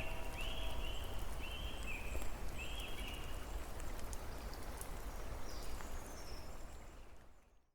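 Steady rain falling with scattered drop ticks, while an animal calls four times in quick succession in the first three seconds and fainter high calls follow later. The sound fades out near the end.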